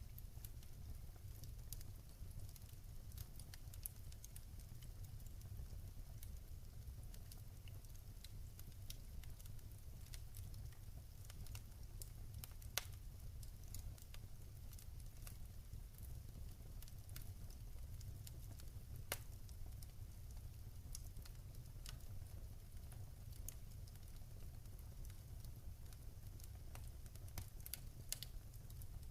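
Wood fire crackling in a fireplace: scattered small snaps and pops over a low steady rumble, with two sharper pops, one a little before halfway and one about two-thirds through.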